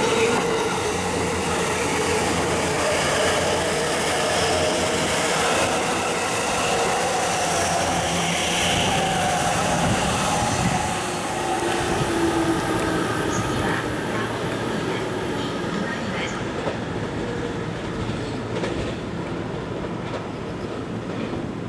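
JR East E257 series electric train passing at speed while accelerating: its traction motors whine with tones that climb in pitch, over heavy running noise from the wheels. The sound fades off through the second half as the train pulls away.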